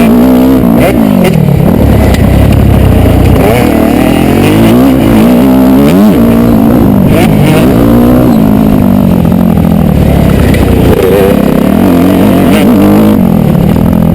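Motocross dirt bike engine revving hard, its pitch climbing and dropping again and again as the rider accelerates, shifts and rolls off the throttle.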